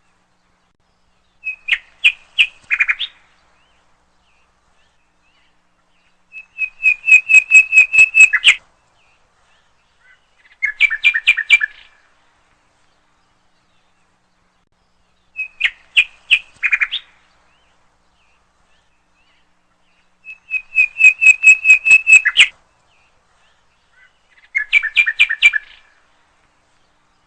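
A songbird singing in short bursts of fast, repeated sharp chirping notes. There are three bursts of different length, then the same three bursts again.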